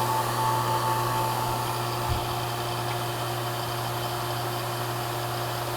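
HVAC vacuum pump running steadily, a low hum with a few held tones over a hiss, as it pulls a vacuum on an air-conditioning system through a single 1/2 inch hose, shortly after starting from atmospheric pressure.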